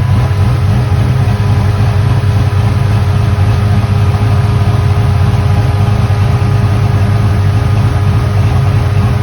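Chevy car engine running steadily, a loud, even low rumble with no changes in pitch.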